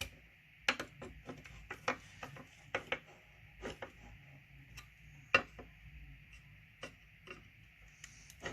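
Small screws and metal parts clicking and tapping as they are handled, in irregular light clicks with one sharper tap about five seconds in.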